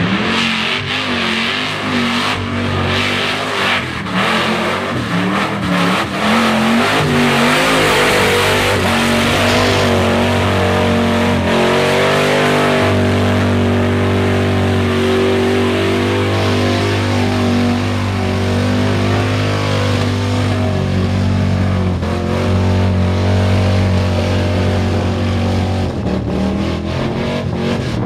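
Mud truck engine running hard at high revs through a mud bog, its pitch wavering and rising about a third of the way through, with a dense hiss of tires and spraying mud.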